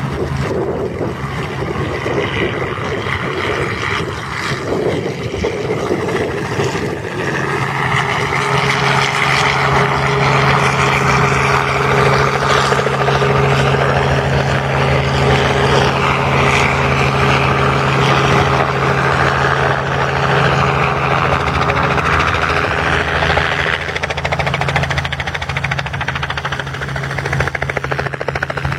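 A motor or engine running steadily, a low hum under a rushing noise that swells about eight seconds in and eases off near the end.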